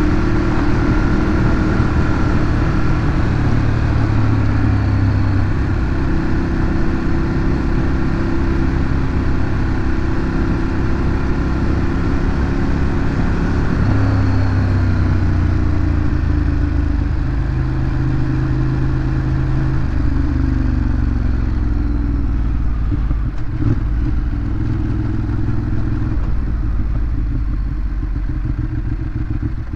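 Ducati Monster 821's 821 cc L-twin engine running under way through its stock exhaust. Its note rises and falls with throttle and gear changes, with a drop in pitch about two-thirds of the way through as the bike slows.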